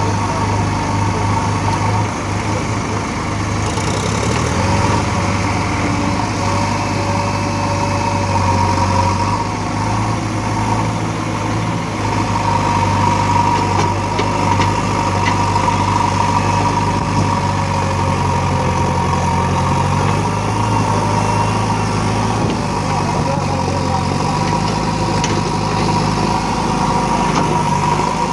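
A vehicle engine running steadily at idle, a constant low hum with a steady higher whine over it.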